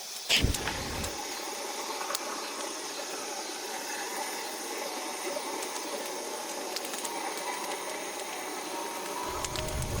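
A short heavy thump, then a steady hiss that runs on evenly.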